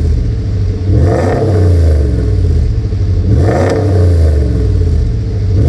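Dodge Ram pickup's engine idling and revved in short blips, three times about two and a half seconds apart, each rev rising quickly and dropping back to idle, heard through a newly fitted chamber-type mid muffler.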